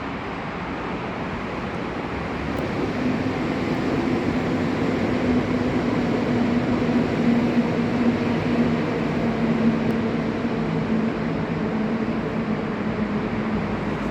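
A train running past on the track: a rush of rolling noise with a steady low tone. It builds over the first few seconds, holds, and eases slightly near the end.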